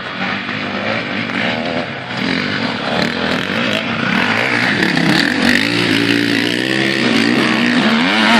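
Several motorcycle engines revving at a race, their pitches rising and falling. The sound grows louder about two seconds in, as the bikes come closer.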